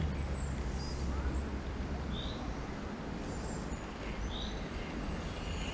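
Outdoor ambience: a steady hiss and low rumble, with a bird giving a short high call note about every two seconds and a few fainter chirps.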